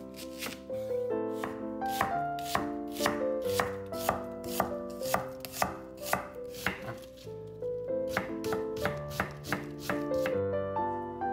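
A kitchen knife chopping food on a cutting board, with sharp cuts coming about two to three a second, over soft piano background music.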